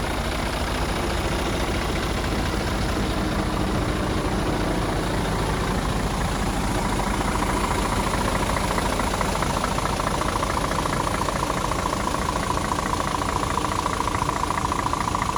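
Scania R450 truck's six-cylinder diesel engine running steadily at low revs, with an even pulse throughout. A high steady whine comes in about halfway through and grows stronger toward the end.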